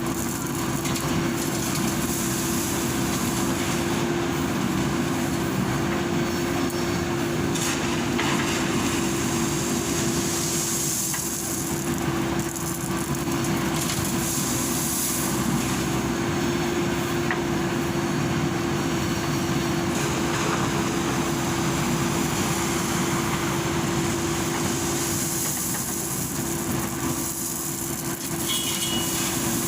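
Heavy diesel engine of construction machinery running steadily, with a constant hum and no change in load.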